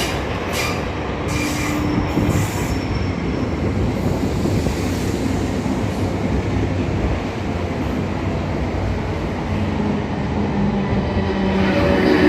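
Train running along the track: a steady rumble of wheels on rail, with short high wheel squeals in the first few seconds. A steady low hum comes in about ten seconds in.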